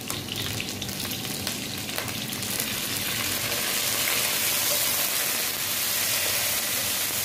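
Chicken pieces sizzling as they fry in hot oil in a non-stick pan, stirred with a slotted spatula; a few light scrapes and taps of the spatula in the first two seconds, and the sizzling grows louder about three seconds in.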